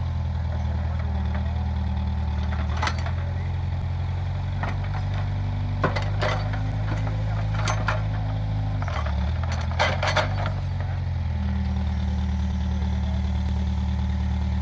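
Case 580G backhoe loader's diesel engine running steadily, with scattered sharp knocks and clanks, a quick cluster of them about ten seconds in. Just before that cluster the engine note dips briefly and comes back up.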